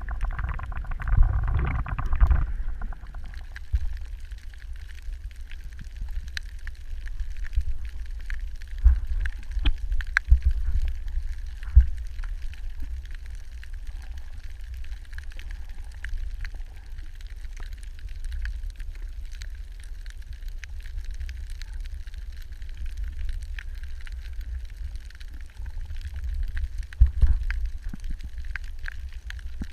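Muffled underwater recording: a steady low rumble of water with scattered faint clicks and a few louder thumps.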